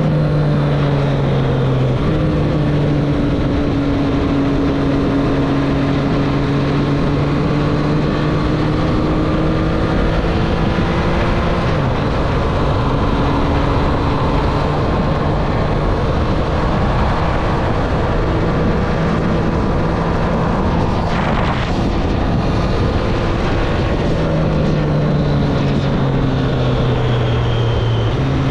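2024 Triumph Street Triple's inline three-cylinder engine running while riding, its note shifting pitch in steps a few times as speed and gears change, over steady wind rush on the helmet or bike camera microphone.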